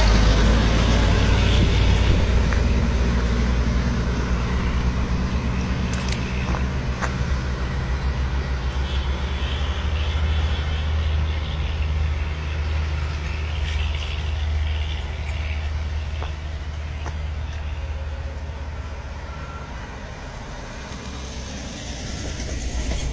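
Darjeeling Himalayan Railway narrow-gauge toy train running: a low, steady rumble of the locomotive and wheels that slowly fades, with a couple of faint clicks.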